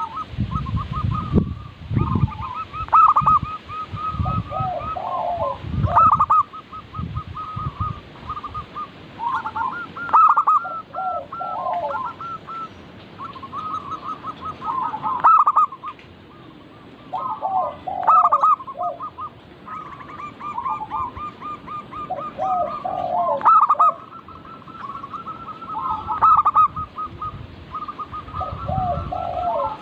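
Several zebra doves (perkutut) cooing: quick, bouncing phrases of staccato notes repeating every second or two and overlapping one another. Low rumbles sound under the calls in the first few seconds and again near the end.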